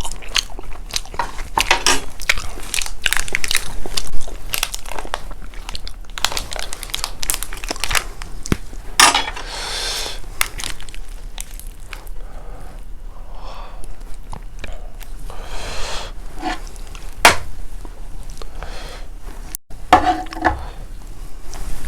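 Close-miked eating sounds: biting into and chewing chicken, a dense run of crackly, crunchy clicks.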